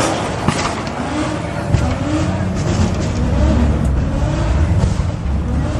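Car engine running, its pitch rising and falling, with a deep low rumble that grows louder about two seconds in.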